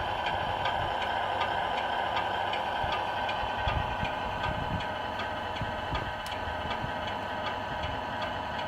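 Radio-controlled Scania R470 model truck running: a steady mechanical whine with a regular ticking over it.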